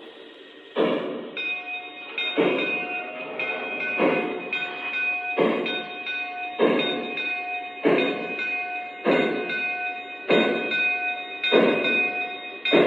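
O scale model steam locomotive's electronic sound system making slow, evenly spaced exhaust chuffs, about one a second and gradually quickening as the engine gets under way. Steady high tones sound over the chuffs.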